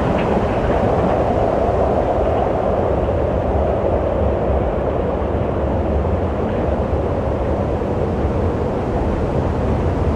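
Strong wind blowing steadily, a deep rumble under an even rushing hiss.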